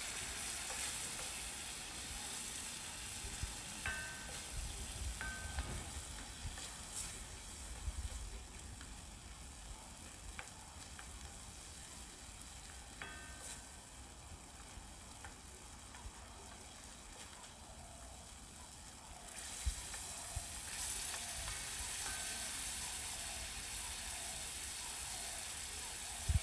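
Diced chicken and tomato sizzling as they fry in a wide pan, with a wooden spoon stirring and scraping through them. The sizzle eases off in the middle and picks up again for the last several seconds.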